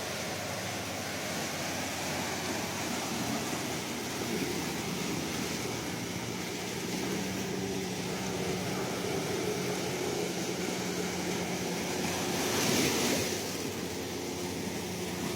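Ocean waves washing ashore in a steady surf, with one louder wave breaking about twelve seconds in.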